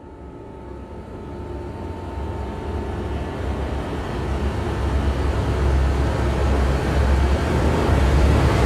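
A deep rumble that swells steadily louder, building toward a whoosh.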